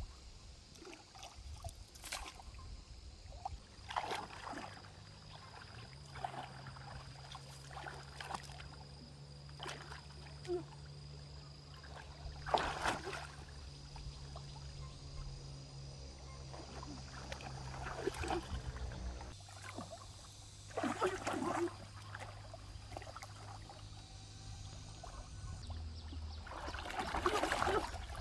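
Stream water trickling, broken by irregular splashes of water being disturbed, the biggest about a third of the way in, about three-quarters of the way in and near the end.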